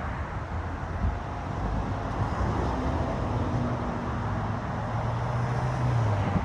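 Road traffic noise: a motor vehicle's low engine hum over a steady rush of tyre noise, growing louder toward the end.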